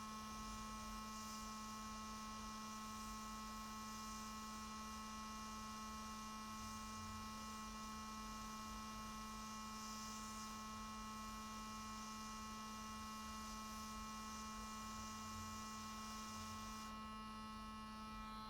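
Steady electrical hum with a few fixed higher whining tones and a faint hiss; the hiss drops away near the end.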